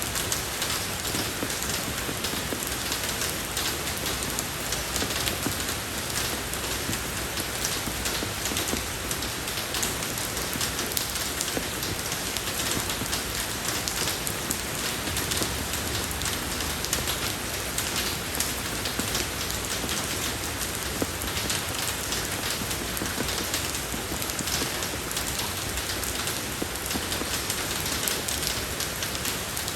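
Steady rain falling on a road surface, a dense even hiss of drops with many small ticks throughout.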